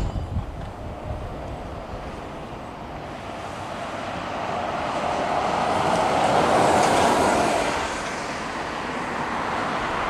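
Jet airliner passing close by on approach. Its engine noise is a steady rush that swells to a peak about two-thirds of the way through, then eases off.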